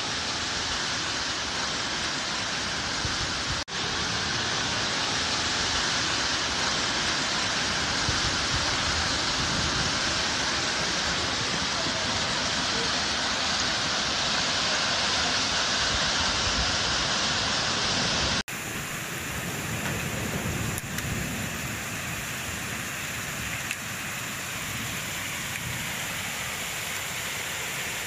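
Heavy downpour: a steady, dense rushing of rain. It cuts off abruptly about four seconds in and again after about eighteen seconds, and the last stretch is duller.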